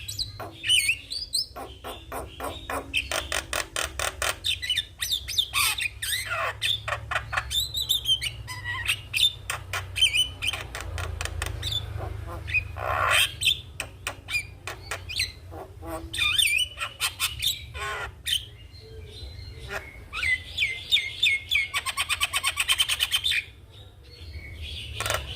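Javan myna singing a long, varied song of whistled notes, harsh squawks and fast rattling clicks, with a long rapid rattle near the end.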